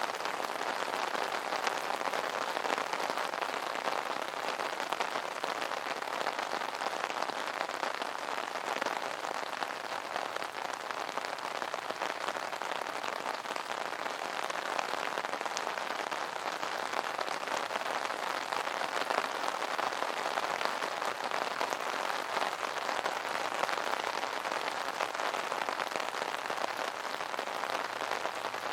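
Rain pattering steadily on an umbrella's fabric canopy, a dense even patter of many small drop ticks.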